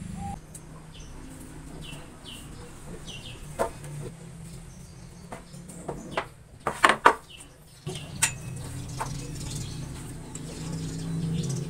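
Small birds chirping in short, falling calls, over a steady low hum. A few sharp knocks come through, the loudest cluster about two-thirds of the way in.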